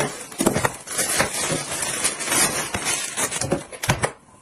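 Plastic toy parts and packaging being handled: dense rustling with frequent clicks and clinks, stopping suddenly about four seconds in.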